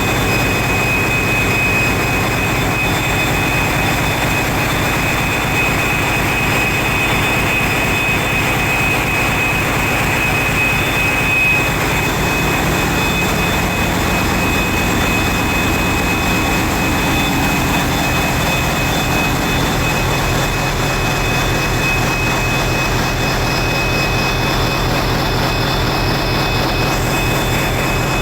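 Loud, steady drone of large diesel power-plant engines running, with a steady high whine over it that fades about twelve seconds in.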